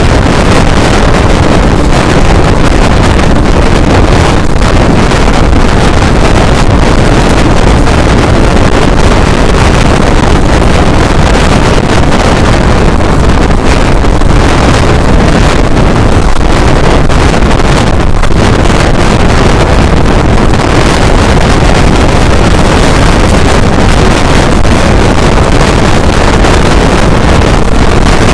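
Loud, steady wind rush on the microphone over the running rumble of a train moving at speed.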